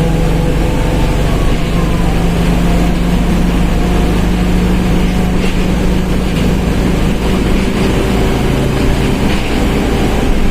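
Mercedes-Benz OF1721 BlueTec 5 diesel bus driving along: a steady engine drone whose pitch rises slightly, then drops about seven seconds in. A fainter whine from the differential sits above it.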